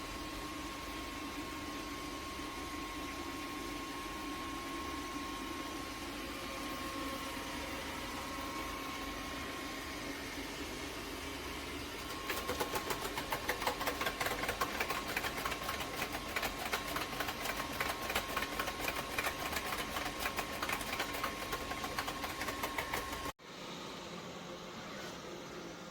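Robot vacuum running with a steady motor whine. About halfway through, a rapid pulsing rattle joins in and the sound gets louder. Near the end it cuts off suddenly and a quieter hum follows.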